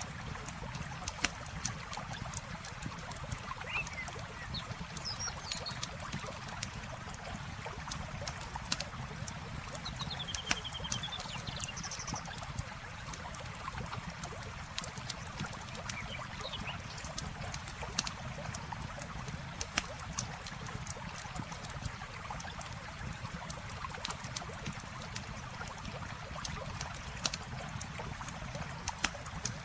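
Campfire crackling with scattered sharp pops over a steady rush of flowing river water, with a few short bird chirps.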